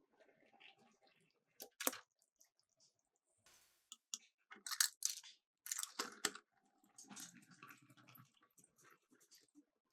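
Miniature toy cars clicking and clattering against a plastic slope in irregular bursts, with several sharper knocks around the middle.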